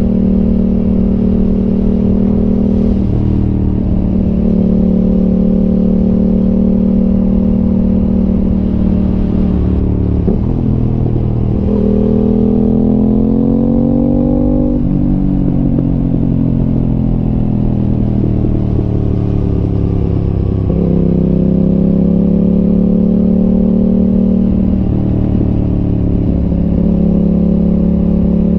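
Aprilia RS 660 parallel-twin engine running through an SC Project exhaust while riding. The revs mostly hold steady, with a few brief dips and steps in pitch. About twelve seconds in, the pitch climbs for a few seconds as it accelerates, then eases back down from about fifteen seconds.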